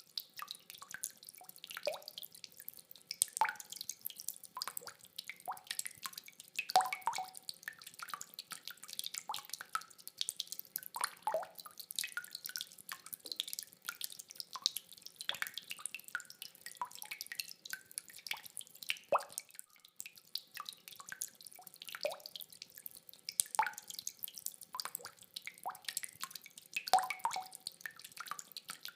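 Rain water dripping: irregular drops falling several times a second, some landing with a short, pitched plop.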